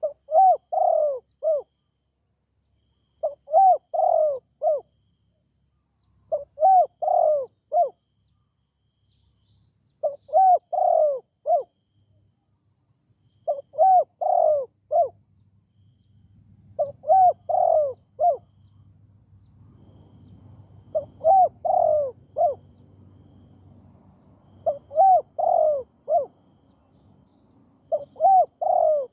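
Spotted dove cooing: a short phrase of three or four notes, repeated nine times at a steady pace of about one phrase every three seconds.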